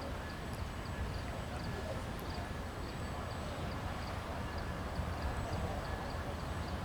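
Amtrak passenger train moving slowly, a steady low rumble with a light, regular clicking about twice a second.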